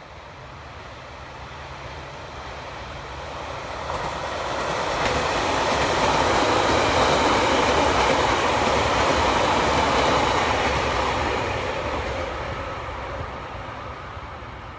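JR Hokkaido 789 series electric train running past on the rails. It grows louder over the first five seconds, is loudest for several seconds in the middle, then fades as it moves away.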